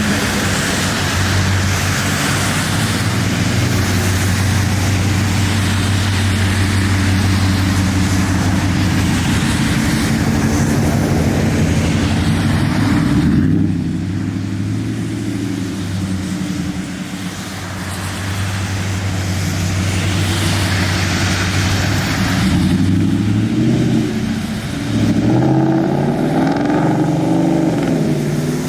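A car engine running at a steady idle, dropping off about halfway through, then revved up and down a few times near the end.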